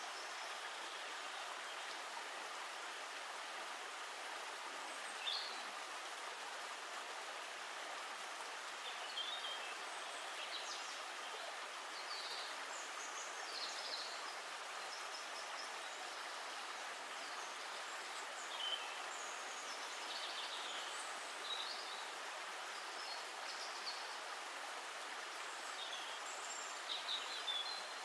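Steady rush of running water, with short high bird chirps scattered every few seconds.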